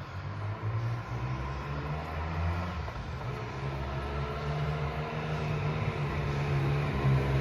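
Triumph Speed Triple 1200 RS inline-three engine running steadily under way, with wind and road noise. The engine note grows gradually louder toward the end.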